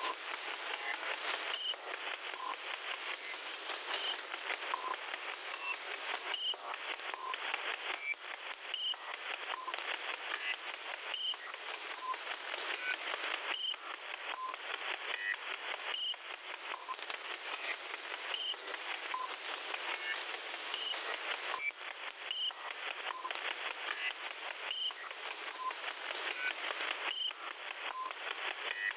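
Unidentified digital-mode data signal received on a shortwave radio: a dense, raspy, hiss-like stream with frequent brief dropouts and short tone pips recurring at regular intervals, heard through a narrow radio passband.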